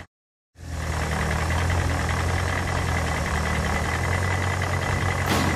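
Vehicle engine sound effect running steadily with a low rumble and a thin steady whine above it. It cuts out completely for about half a second at the start, then resumes.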